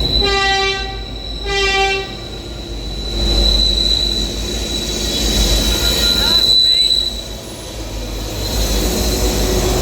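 A train horn sounds twice, a blast of about a second and a shorter one. The train then rolls on with a low rumble and a steady high-pitched wheel squeal.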